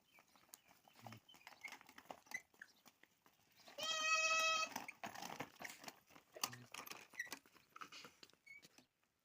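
An animal gives one long call at an even pitch about four seconds in, among small scattered clicks and rustles.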